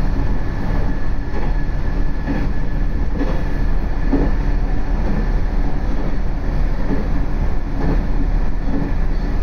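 Cabin noise of a diesel railcar under way: a steady rumble of engine and wheels on the rails, with faint knocks recurring about once a second as the wheels pass over rail joints.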